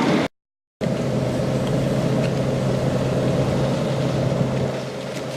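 Steady car cabin noise: a constant low engine hum with road and air noise, broken just after the start by half a second of dead silence at an edit cut.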